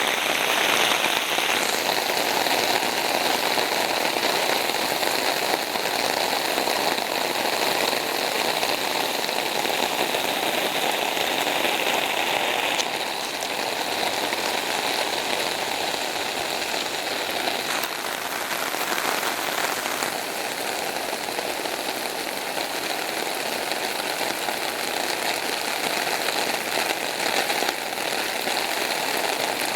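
Steady rush of water during a flood, a little quieter from about thirteen seconds in.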